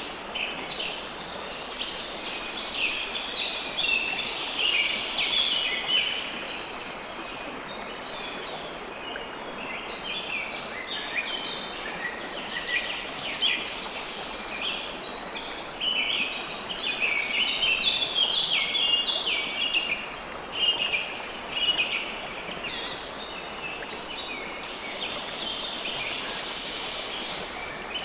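Songbirds chirping and calling busily in many short, quick notes over a steady background hiss of water. The chirping thins out for a few seconds around the first quarter, then picks up again.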